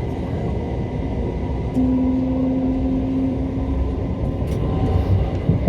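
Class 377 Electrostar electric train, a steady rumble and hum. A louder steady low tone comes in about two seconds in and holds for about two seconds.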